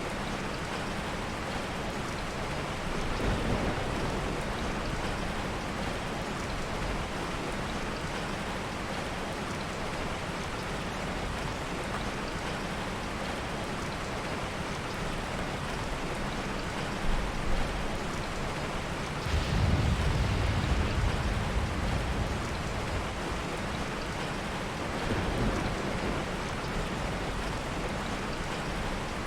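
Heavy rain falling steadily, with low rumbles of soft thunder: a light one about three seconds in, the loudest around twenty seconds in, and another a few seconds later.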